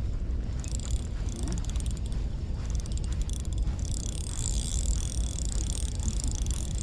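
Spinning reel being cranked, its gears giving a fast, fine run of ticking that grows stronger about four seconds in, over a steady low rumble of wind on the microphone.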